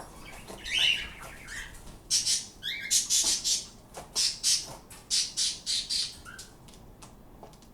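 A pet bird squawking: a fast string of short, harsh, high squawks, densest from about two to six and a half seconds in, with one earlier squawk about a second in.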